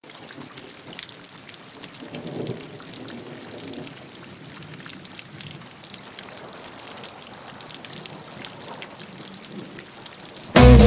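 Steady rain falling, an even hiss dotted with individual drop hits. Loud band music with guitar cuts in abruptly right at the very end.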